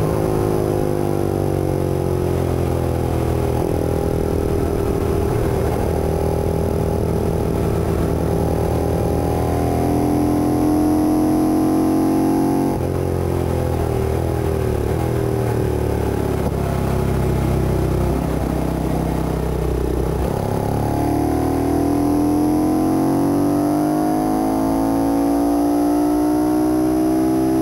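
Ducati 450 single-cylinder four-stroke race engine heard onboard at racing speed. Its pitch falls over the first few seconds, climbs again, breaks briefly about halfway through, drops once more, and then rises steadily through the last third as the bike accelerates.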